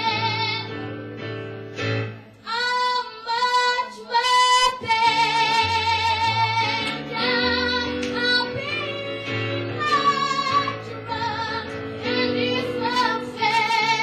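A woman singing over instrumental accompaniment, holding long notes with a wide vibrato.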